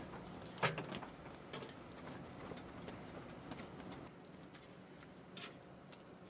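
A few sharp, scattered knocks and clicks, the loudest about half a second in, over a steady low background noise.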